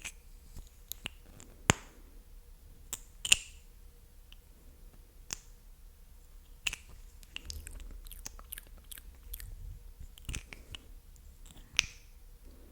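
Close-miked ASMR mouth sounds: irregular wet, sticky clicks and pops of the lips and tongue, with a few louder pops about 2, 3 and 12 seconds in.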